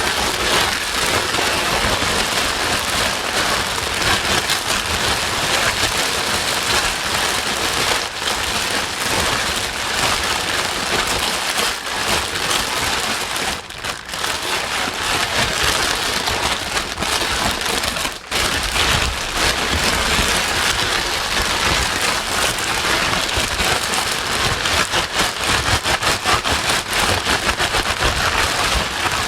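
Steady, loud white-noise sleep track with the hiss and texture of heavy rain, dipping briefly about 14 seconds and again about 18 seconds in.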